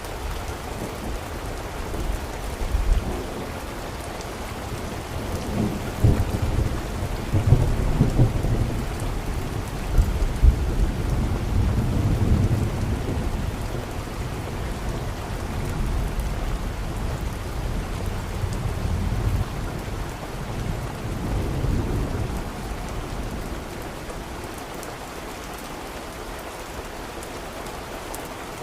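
Steady rain with a long roll of thunder: the low rumble builds a few seconds in, is loudest with several cracks between about 6 and 13 seconds, and dies away some ten seconds later, leaving the rain alone.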